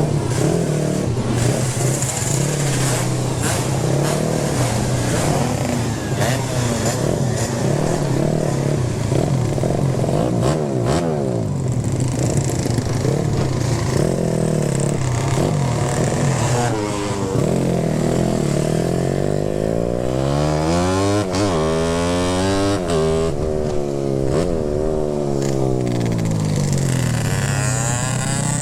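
Motorcycle engine running under way, its pitch climbing and falling again and again as the rider opens and closes the throttle, the swings growing larger in the second half.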